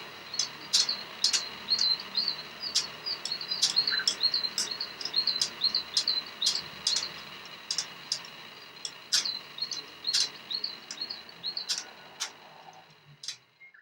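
Budgerigar chattering in short, quick chirps, mixed with frequent sharp clicks about twice a second; it fades out near the end.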